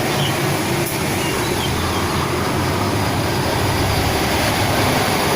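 Steady rumbling noise with a low hum, even in level throughout, like a running vehicle or engine heard close by.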